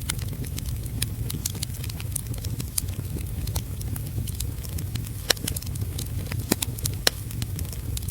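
Wood fire crackling in a fireplace: frequent sharp pops and snaps at irregular intervals, a few louder ones in the second half, over a steady low rumble.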